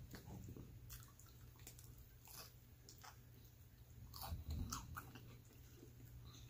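Faint close-up mouth sounds of a person biting and chewing pepperoni pizza, with a louder bite and chew about four seconds in.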